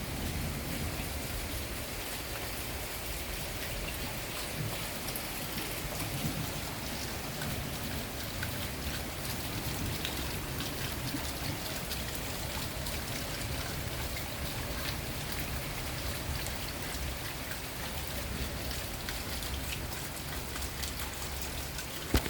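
Steady rain, with many individual drops ticking on surfaces close by. A single brief knock sounds near the end.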